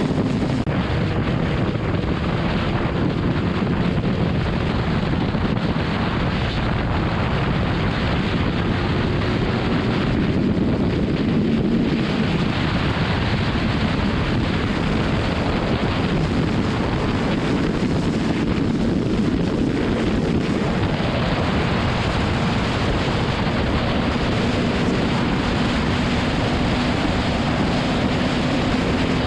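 BMW S1000RR inline-four sport bike cruising at a steady highway speed, its engine note held constant under heavy wind rush on the microphone.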